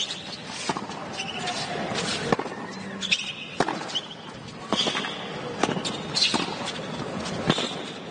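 Tennis ball impacts on a hard court: a string of sharp, irregularly spaced hits and bounces, with short high squeaks of shoes on the court surface, over low crowd murmur.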